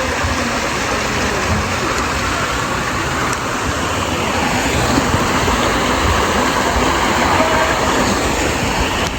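Steady rushing noise, rising a little in the second half, with faint voices underneath.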